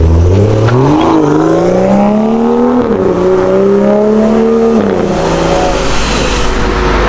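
BMW 535i N55 3.0 L turbocharged straight-six through an aftermarket cat-back exhaust, accelerating hard with its note rising steadily. The pitch drops suddenly about three seconds in at an upshift and climbs again, then falls and settles to a steadier tone about five seconds in.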